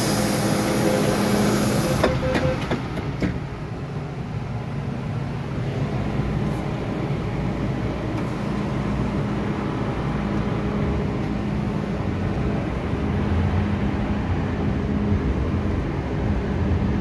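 MTR M-Train electric multiple unit running on the Island Line, heard from inside the car: steady rail and running noise with a low hum. A loud hiss cuts off about two seconds in, followed by a few sharp clicks, and the low rumble grows near the end.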